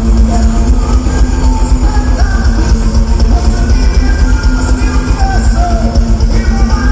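A live band playing loud rock-style music with singing, heavy in the bass.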